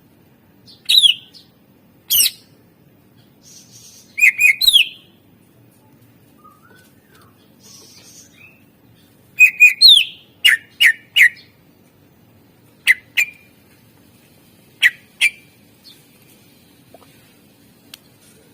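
A caged green leafbird (cucak ijo) singing in loud, sharp whistled notes and chips. Several are quick downward sweeps, given in short bursts of one to four notes with pauses of a second or more between them.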